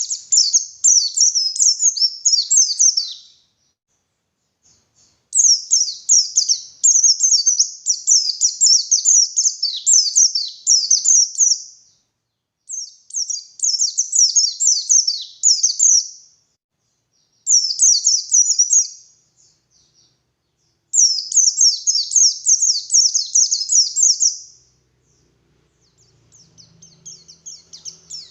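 White-eye (pleci) singing a rapid, high-pitched twittering song in bursts of a few seconds, separated by short pauses. A fainter twittering comes in near the end.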